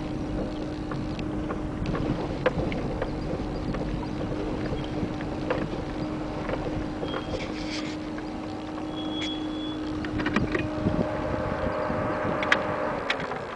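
Vehicle engine running, heard from inside the vehicle: a steady low hum over rumble and some wind noise, with scattered light clicks. The hum drops and stops near the end.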